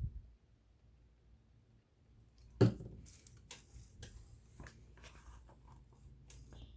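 A low bump at the start, a sharp knock about two and a half seconds in, then a run of small clicks and taps: hands handling a metal sewing machine and its parts while oiling it.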